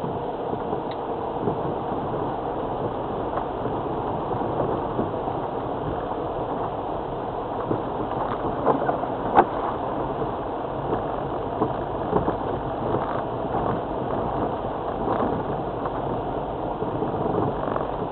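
2002 Land Rover Freelander TD4 diesel driving along a rough, muddy track, heard from inside the cabin: a steady rumble of engine and tyres with scattered knocks and rattles, the sharpest about nine seconds in.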